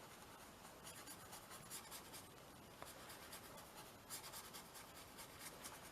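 Faint scratchy strokes of a water brush working chalk pastel across a gessoed canvas, in two short runs of quick strokes.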